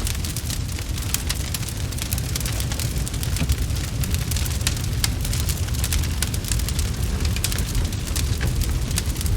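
Wood fire crackling, with many quick irregular pops and snaps over a steady low rumble.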